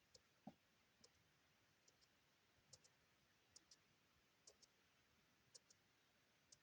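Faint clicks of a computer mouse, often in quick pairs about once a second, over near silence.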